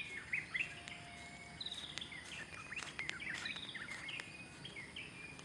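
Birds chirping: many short, quick calls overlapping one another, over a faint steady outdoor background.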